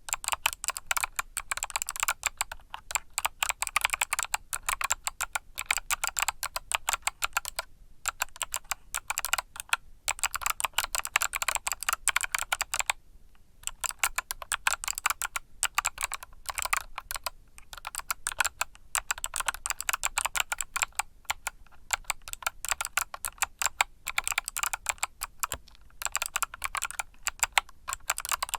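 Fast typing on a mechanical keyboard with Kailh Box switches, a dense run of sharp key clicks broken by a few brief pauses.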